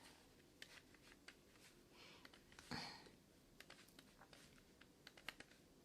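Near silence with faint, scattered small clicks and a brief soft hiss a little past halfway.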